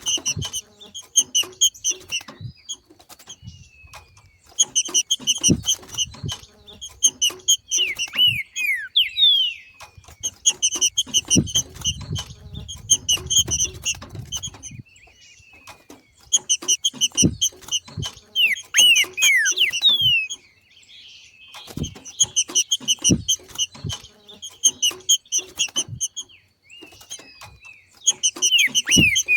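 Green-winged saltator (trinca-ferro) giving its 'macheado' call: short bouts of rapid, clipped high notes repeated every few seconds, with falling whistles between the bouts. This is the call the birds make as they enter breeding condition. Short clicks and a low rumble in the middle are heard along with it.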